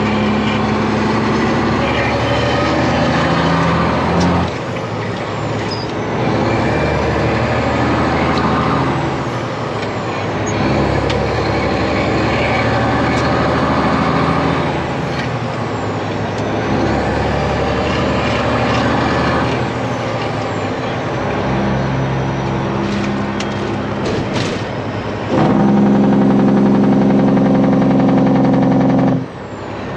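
Kenworth truck's Detroit Diesel engine running under way, its note stepping down and up several times. Near the end a louder, steady note sounds for about four seconds and cuts off suddenly.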